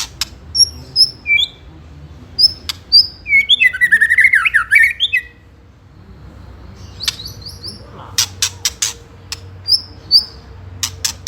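White-rumped shama giving its agitated scolding call: sharp clicking 'tak' notes and short high whistles, with a burst of harsh chattering about four seconds in. This is the rattling ketrekan call that signals an aroused, combative bird.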